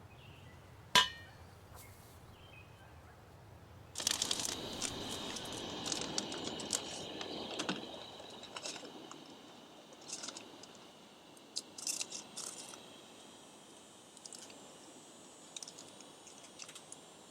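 Camp handling sounds: a single sharp metallic clink about a second in, then several seconds of crackling, crunching rustle, followed by scattered small clicks and taps.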